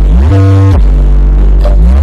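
Very loud, bass-heavy music from a carnival sound system, its deep bass notes sliding up and down in pitch.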